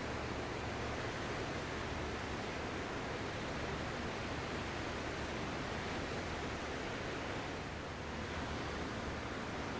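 Ocean surf: a steady, dense wash of breaking waves that eases slightly near the end and then builds again.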